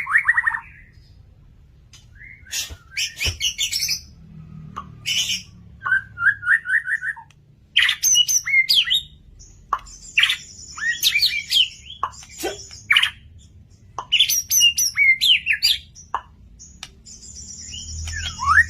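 White-rumped shama (murai batu) singing in vigorous, varied phrases: quick trilled runs, whistled slides and buzzy high notes, separated by short pauses.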